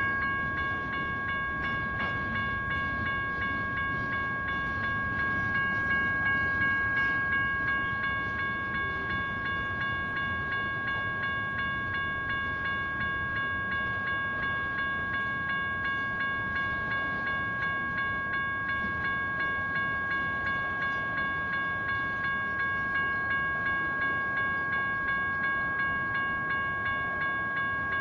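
Crossing signal's General Signals Type 1 electronic bell ringing steadily at about two strokes a second, over the rolling rumble of a passing train.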